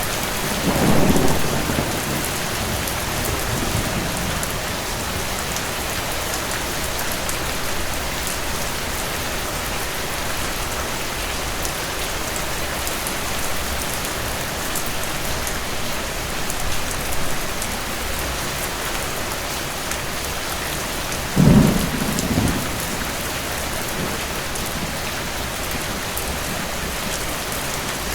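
Steady rain with two rolls of distant thunder: a low rumble about a second in that trails off over a few seconds, and a louder, shorter one near the end.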